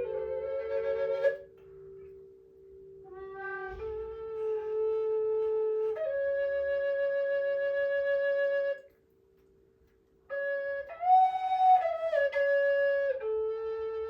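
Flute-like wind instrument playing long held notes that step up and down in pitch, over a lower steady drone tone. The notes break off for about a second and a half past the middle, then resume.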